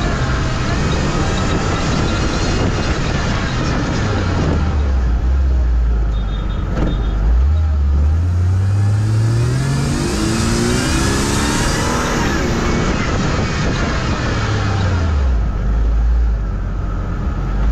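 A racing car's engine is revved hard under load, its pitch dropping and climbing again and again as it accelerates and slows. It drops about four seconds in, climbs from about seven seconds, drops again near fifteen seconds and climbs at the end. A single sharp click comes about seven seconds in.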